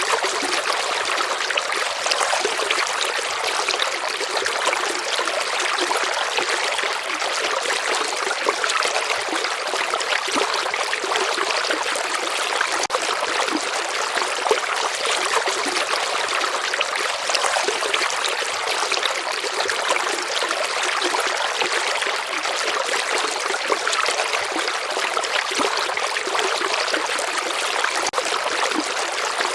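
A river flowing steadily, a continuous light rush of water with fine trickling and no deep rumble.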